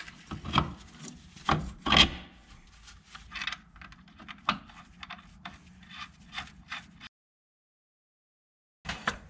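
Hand tools working on a car's rear suspension: irregular clicks, knocks and scraping of metal on metal, with the louder knocks in the first two seconds. The sound drops out completely for under two seconds near the end.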